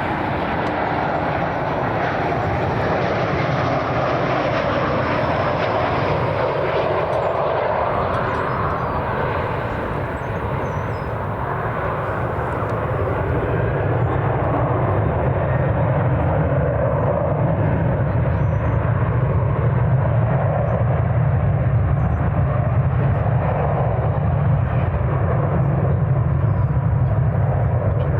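Jet airliner engine noise: a continuous rushing sound that deepens and grows a little louder about halfway through.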